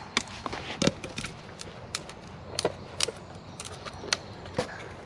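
Dry twigs and sticks cracking and snapping in a string of sharp, irregular clicks.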